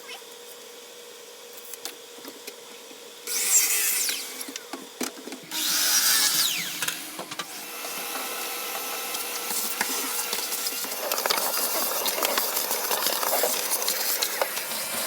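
A power tool working 3/4-inch MDF. It gives two short bursts a few seconds in, then runs longer and grows louder toward the end.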